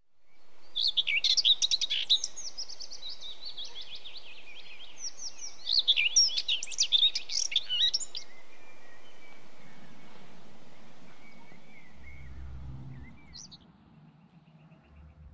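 Songbirds singing outdoors: two bursts of rapid, high twittering song, then fainter scattered chirps, over a steady background hiss. A low hum comes in near the end.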